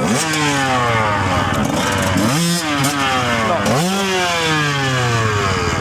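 Motorcycle engine running and revved three times, each time the pitch climbing quickly and then sinking slowly back down.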